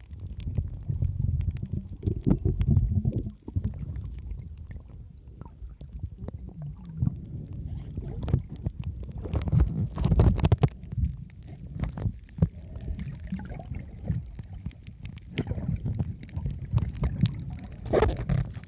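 Gusty low rumble of wind on the microphone, with scattered knocks and clicks of handling, loudest around the middle and again near the end.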